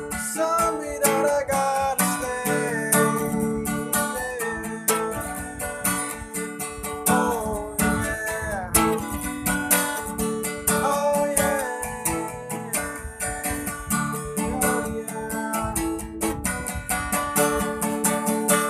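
Instrumental guitar solo in a rock band song: a lead guitar playing bending, sliding notes over strummed guitar chords and a steady drum beat.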